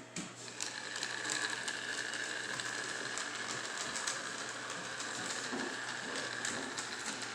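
Motorised toy Thomas the Tank Engine running along its track: a small geared motor whines steadily, over a rapid run of light clicks and rattles.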